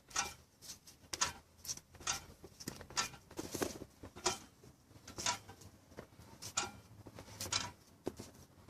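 Mitsubishi 4A91 engine being turned over by hand with its spark plugs and camshafts out, giving a run of short knocks, about two a second: the piston knock being tracked down.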